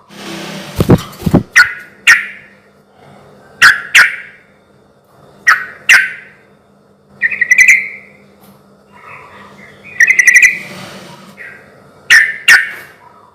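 Yellow-vented bulbul (trucukan) calling: loud, short bubbling notes, mostly in pairs, repeating about every two seconds. A few low thumps come about a second in.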